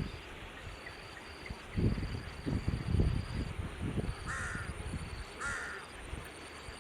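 A bird calling twice, two short calls about a second apart, each lasting around half a second. Before them come louder low rumbling thumps, and a single knock at the very start.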